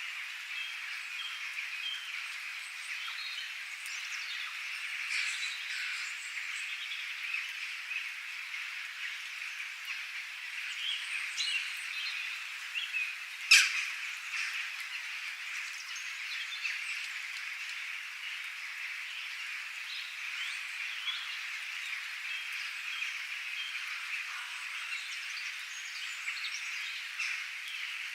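Many birds chirping in short scattered calls over a steady, dense, high-pitched background chorus. About halfway through there is one sharp, loud call or crack, the loudest sound in the passage.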